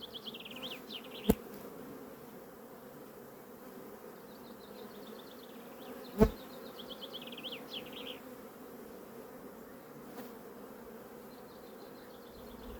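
Honeybee colony buzzing steadily in an opened hive, with two sharp knocks, one about a second in and one about six seconds in. High chirping comes and goes over the hum.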